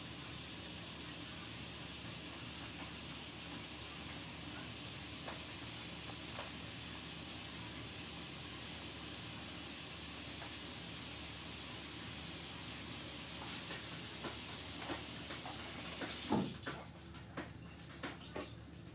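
Kitchen tap running water in a steady rush, shut off about sixteen seconds in, followed by a few light clicks and knocks.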